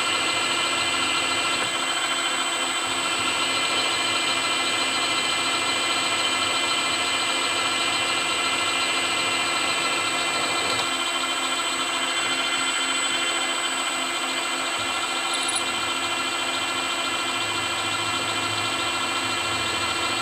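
Milling machine spindle running steadily with a small drill bit cutting a pin hole through a chair ram shaft, fed in gently.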